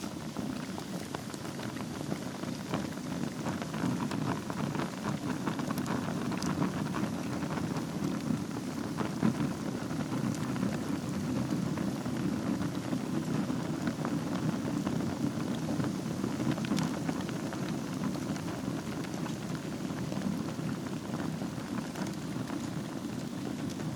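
Wood fire burning in a fireplace over a bed of embers: a steady low rush of flame with scattered small crackles and pops.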